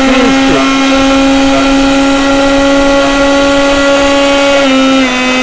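Bajaj 750-watt mixer grinder running at high speed on its second speed setting, a loud, steady motor whine. The pitch dips slightly near the end.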